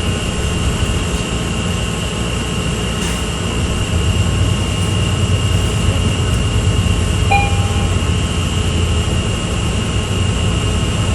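Steady rumble of a Toronto subway train running, heard from inside the car, with a steady high-pitched whine over it.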